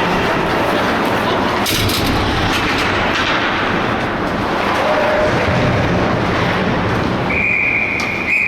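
Continuous game noise on an ice rink with a few short knocks, and about seven seconds in a steady high-pitched buzzer starts and keeps sounding.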